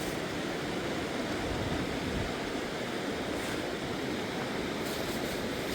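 Fast mountain river rushing: a steady, unbroken water noise, with a few faint ticks in it.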